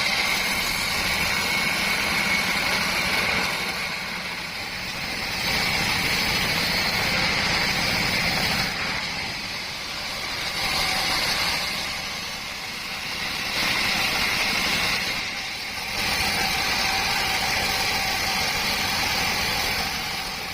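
Sawmill saw running with a steady mechanical noise and a faint whine, getting louder and then easing again about every five seconds.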